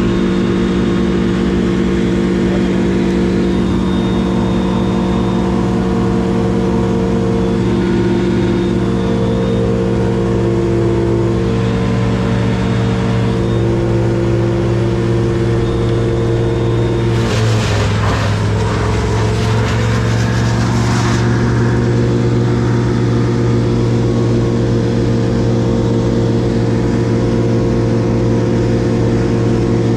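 A motor engine running steadily. About seventeen seconds in, its pitch dips as it comes under load, with a burst of harsh noise for about four seconds, then it settles back.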